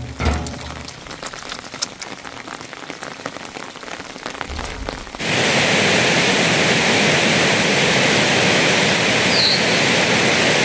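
Steady rain falling on a grassy hillside, starting suddenly about five seconds in. Before it there is only a quieter background with a few faint clicks.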